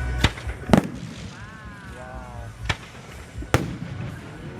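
Fireworks going off in a display: four sharp bangs spread over a few seconds, with a short pitched sound in between.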